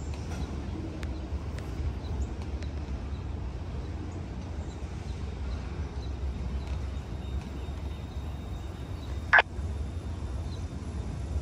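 A slow freight train rolling past as a steady low rumble with faint scattered clicks, and one short sharp squeal about nine seconds in.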